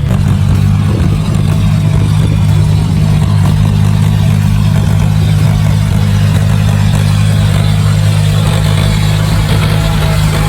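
John Deere 5055E tractor's diesel engine running steadily under load while cultivating wet mud, a deep even drone that holds the same pitch throughout.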